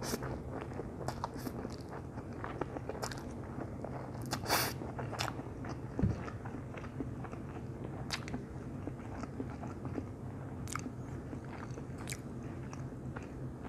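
A person chewing a mouthful of stir-fried instant noodles and sausage, with many small wet mouth clicks and one louder smack about four and a half seconds in.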